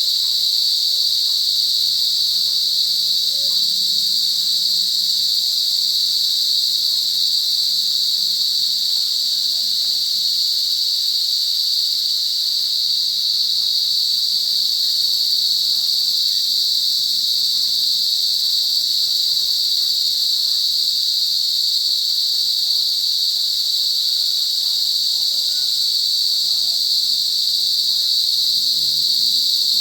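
Cicadas buzzing in a loud, continuous chorus: one steady, high-pitched drone that does not let up.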